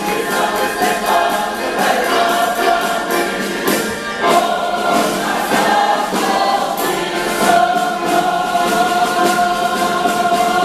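A choir singing a Ukrainian song, holding one long note through the last few seconds.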